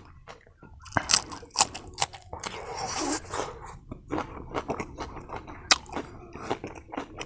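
Close-miked chewing of a mouthful of rice and roasted pork, open-mouthed, with many sharp irregular crunchy clicks starting about a second in.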